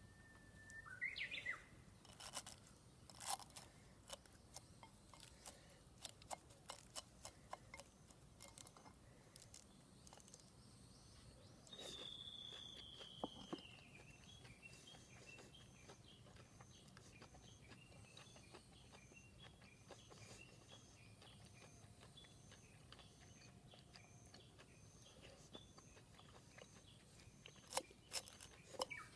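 Quiet garden ambience with birds calling: a short chirp about a second in and a drawn-out falling whistle near the middle. Scattered soft clicks and crunches sound through the first half and again near the end.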